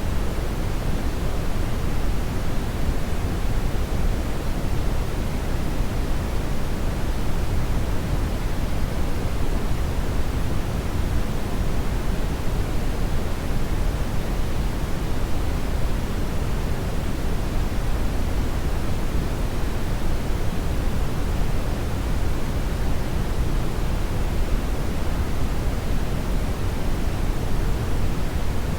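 Hair dryer blowing steadily: an even, unchanging rushing noise, heaviest in the low end.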